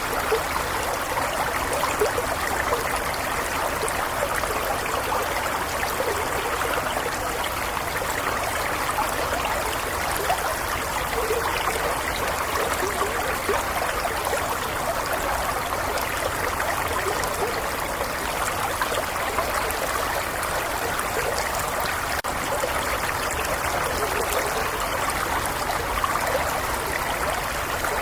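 Shallow stream flowing steadily, water trickling and babbling over stones.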